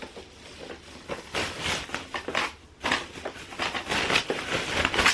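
Packaging rustling and crinkling in irregular bursts as the coffee maker is unwrapped and handled, with a few sharp crackles.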